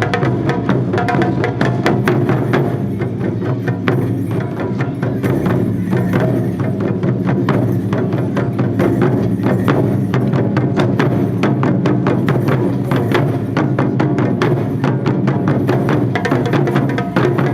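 Japanese taiko drum ensemble playing, a dense run of rapid strikes with sharp, clicking stick hits over a steady low ring.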